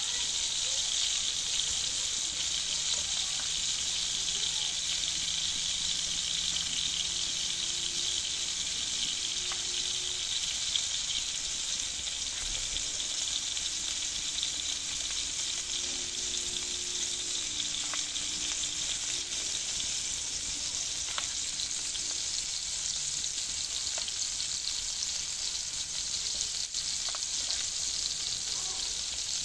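Tomato rings filled with a spooned-in mixture frying on a large flat iron griddle over a wood fire: a steady sizzle, with a few faint clicks.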